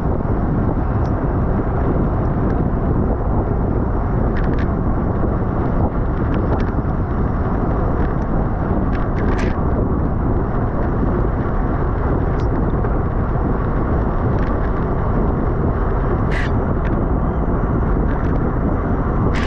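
Steady rushing wind on the microphone of a racing bicycle's camera at speed, with road and tyre noise under it and a few short sharp ticks scattered through, the clearest near the end.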